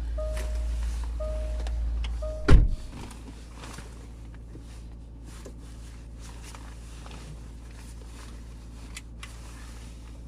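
A car's warning chime beeping steadily over a low rumble, then a car door slammed shut about two and a half seconds in, which cuts off the chime and rumble; after it only faint scattered clicks.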